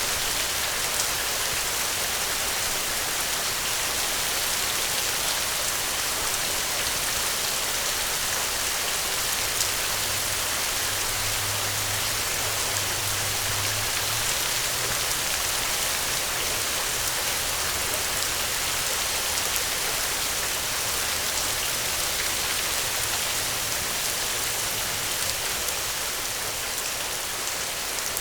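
Steady rain falling on a surface: a dense, even hiss of many drops, brightest in the high end, at a constant level.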